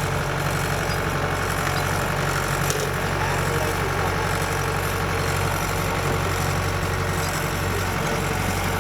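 Diesel engine of a Kubota combine harvester running steadily at a low, even speed.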